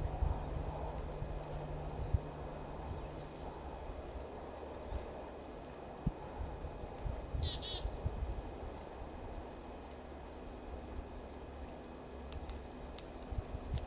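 Small birds at a winter feeder calling with short, high chirps, plus a few quick trills and one louder call about halfway through, over a steady low background rumble.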